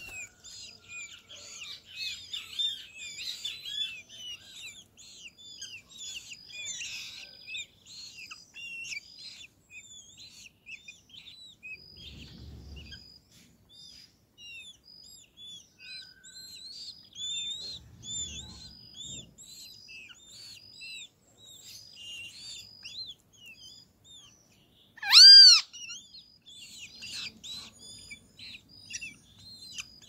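Continuous high chirping and twittering from birds, busiest in the first few seconds. About five seconds before the end comes one loud, harsh call from a great kiskadee.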